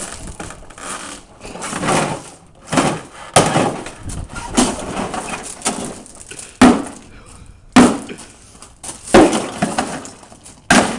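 A refrigerator being smashed: a run of heavy, irregular blows, roughly one every second or two, each a sharp crack with rattling and breaking after it.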